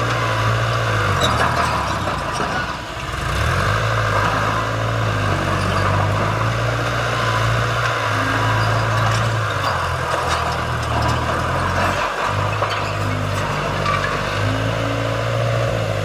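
Heavy diesel engine of earth-moving machinery running steadily with a deep hum. It drops off briefly about three seconds in, then picks up again.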